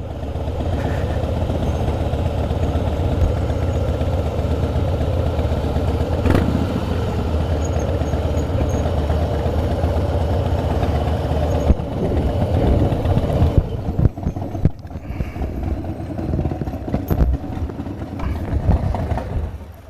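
Harley-Davidson V-twin motorcycle engine running at low speed with a steady rumble. About two-thirds of the way in, the steady engine note breaks off and gives way to uneven running and scattered knocks and clatter.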